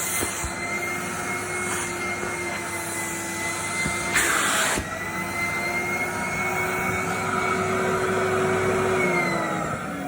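Vacuum cleaner motor running with a steady whine and rush of air, with a brief louder burst of suction noise about four seconds in. Near the end it is switched off and the motor whine falls in pitch as it winds down.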